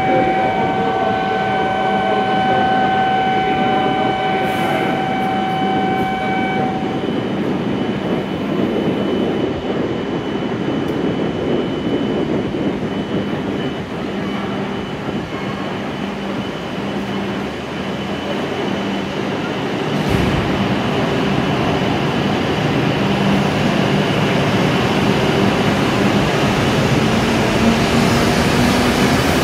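W7 series shinkansen train at a station platform, pulling out. A steady electronic warning tone sounds for about the first seven seconds over the running noise of the train. About twenty seconds in the train starts to move, and its motor whine rises slowly in pitch as it picks up speed.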